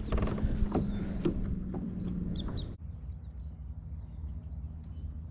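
A few brief bird calls over outdoor background noise with a steady low hum and scattered light clicks. Nearly three seconds in the background drops abruptly to a quieter, duller hush.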